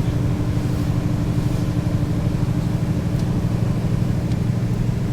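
Mercedes-Benz O 530 G Citaro G articulated bus's diesel engine running at a steady pitch, a constant low drone with no revving up or down.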